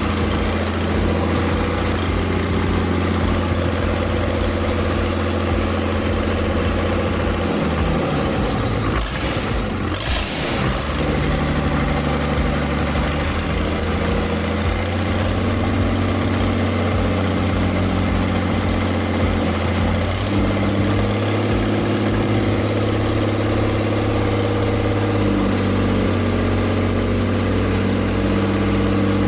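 Freshly overhauled Ashok Leyland H-series 180 HP bus diesel idling steadily on its first run after the rebuild. There is a short rush of noise about ten seconds in, and the idle note shifts slightly about twenty seconds in.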